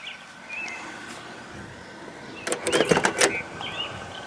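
The driver's door of a 1974 Chevy Nova being opened: a quick cluster of latch clicks and a creaking hinge about two and a half seconds in, lasting under a second.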